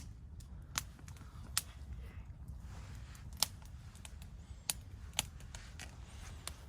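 Campfire crackling: burning wood gives irregular sharp pops and snaps, a few each second or two, over a low steady rumble.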